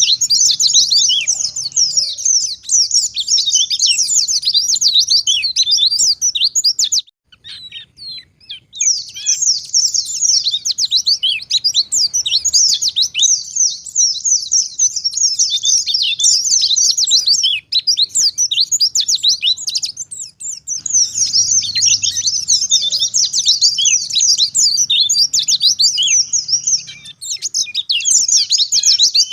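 White-eye (pleci) singing a fast, continuous, high-pitched chattering warble. The song breaks off for about two seconds some seven seconds in, then resumes and runs on with a brief dip near the end.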